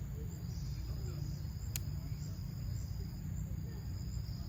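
Steady high-pitched insect trilling over a low rumble, with one sharp click about two seconds in.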